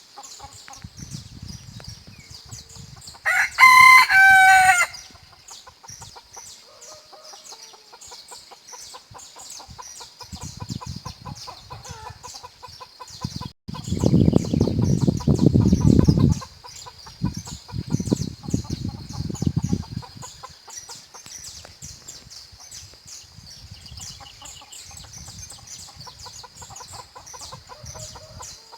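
Bantam rooster crowing once, loud, a few seconds in, with hens clucking and faint bird chirps in the background. Around the middle come two loud low rumbling noises lasting about two seconds each.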